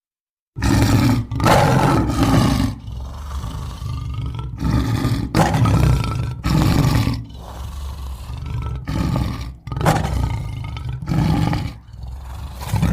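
Big-cat roaring sound effect, given as the roar of an American lion: a series of deep, loud roars and grunts, about one a second, starting about half a second in.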